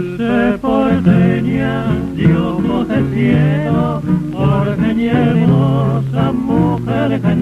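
A male singer's voice with a wavering vibrato sings a waltz over guitar accompaniment. It is heard from an old 78 rpm record, with a narrow, muffled sound that has no highs.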